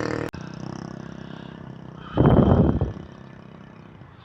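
Road traffic heard from a bicycle: a motor vehicle's engine running, cut off abruptly just after the start. About two seconds in there is a loud, brief rush of noise lasting under a second.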